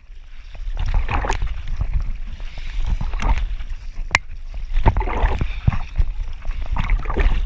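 Water splashing and sloshing around a kayak, swelling roughly every two seconds, with a few sharp knocks. A steady low rumble of wind on the microphone lies under it.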